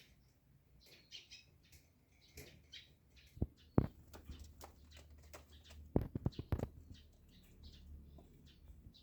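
Domestic pigeon colony: scattered short high chirps, with a couple of sharp knocks and then a quick run of sharp flapping strokes about two-thirds of the way through.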